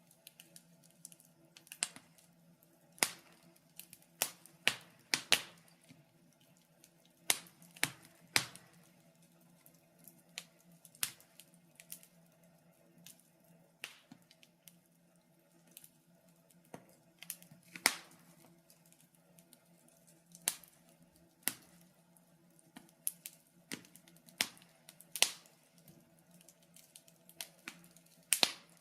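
Wood fire crackling in a fireplace: irregular sharp pops and snaps of burning logs, a few every couple of seconds and some much louder than others, over a faint steady low hum.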